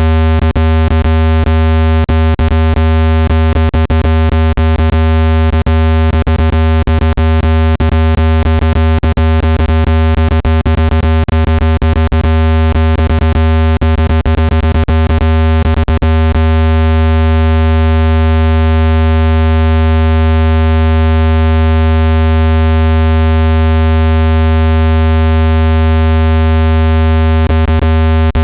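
Synthesized water-ejection tone for a phone speaker: a loud, steady low tone with a ladder of overtones, meant to shake trapped water out of the speaker grille. Many sharp clicks run over it through the first half and again near the end.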